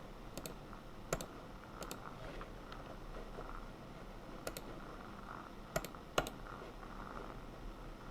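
Scattered keystrokes on a computer keyboard: about six sharp clicks spread over several seconds, some in quick pairs, over a faint steady hum.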